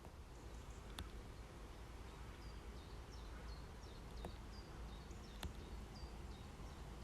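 A small songbird calling over a low outdoor rumble: short, high chirps repeated two or three times a second from a couple of seconds in. There are also a few sharp clicks.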